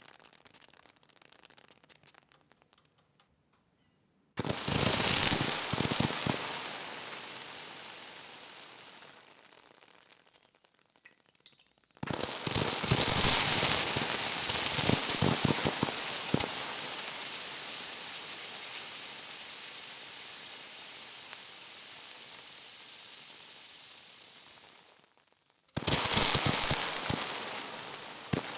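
Water sizzling on a hot surface in three bursts, each starting suddenly with crackling and fading into a hiss. The first fades out over about six seconds. The second runs about thirteen seconds and stops abruptly, and the third begins near the end.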